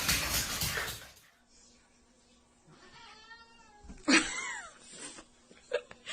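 A domestic cat meowing: a quieter drawn-out call about three seconds in, then a louder meow just after four seconds. It follows a second of loud noise that cuts off abruptly.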